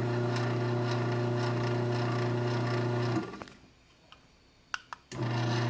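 AC motor of a LiftMaster 8164W garage door opener running with a steady hum. It winds down and stops about three seconds in, two sharp clicks follow, and the motor starts up again abruptly near the end.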